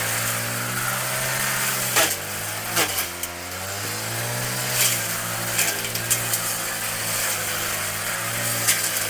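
Small petrol engine of a grass-cutting mower running steadily, its pitch dipping briefly twice near the start as it takes load, with sharp clicks now and then from material struck while cutting.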